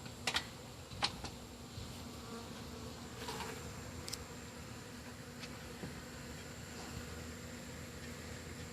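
Honeybee colony buzzing in a steady hum, with a few sharp clicks in the first second and a half.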